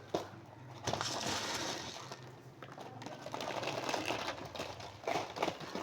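Large pigeon squabs being fed: a rapid, clicking rattle of beaks and fluttering, coming in spells.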